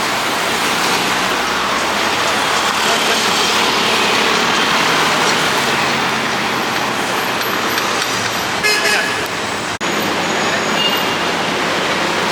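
Steady city road traffic noise from passing cars, with a short car-horn toot about nine seconds in.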